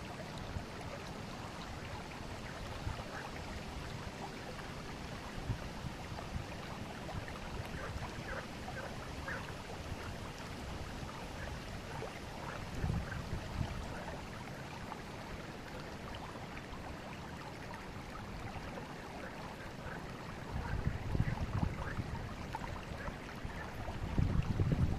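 River water flowing and babbling over stones, a steady rush with many small splashes and gurgles. Low rumbles swell briefly near the middle and again over the last few seconds.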